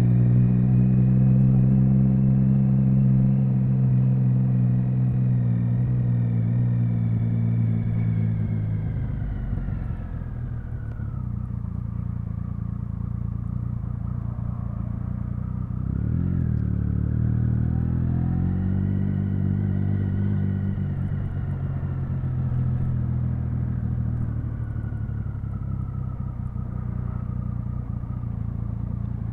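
Triumph Speed Triple 1050's inline three-cylinder engine and exhaust under way, its note holding steady, then falling as the bike slows about a third in. It picks up again just past halfway and eases off near the end.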